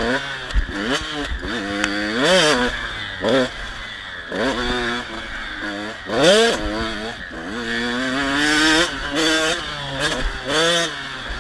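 KTM 85 SX two-stroke motocross bike engine revving hard and dropping off again and again, with about nine quick rises in pitch as the throttle is opened and closed.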